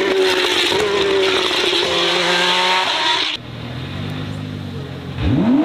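Race car engine running hard at high revs, its pitch sliding slowly down. About three and a half seconds in it cuts abruptly to a quieter, lower-pitched engine note, which revs sharply upward near the end.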